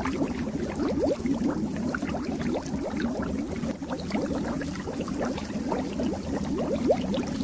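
Fish tank water bubbling steadily, a dense stream of small bubbles rising and popping.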